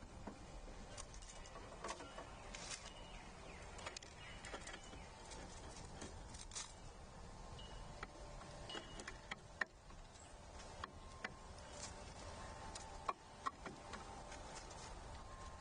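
Faint, irregular light taps and clicks of animals feeding on a wooden-composite platform feeder, with a few brief faint bird chirps; two sharper knocks come about ten and thirteen seconds in.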